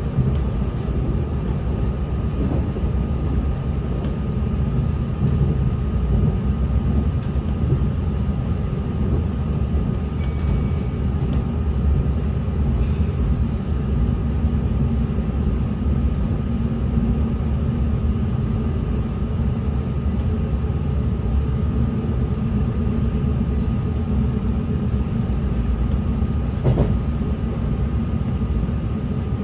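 NI Railways Class 3000 diesel multiple unit heard from inside while under way: a steady low rumble of engine and running gear, with a constant high whine over it. A single brief knock comes near the end.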